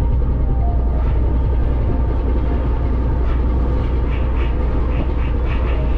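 Ferry engine running with a steady, deep rumble, heard on board the vessel.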